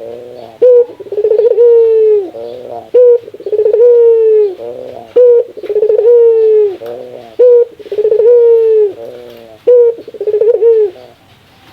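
Burung puter (Barbary dove) giving its 'laughing' coo (ketawa) in five phrases about two and a half seconds apart. Each phrase is a short sharp note, then a run of quick stuttering notes and a long falling coo. The calling stops shortly before the end.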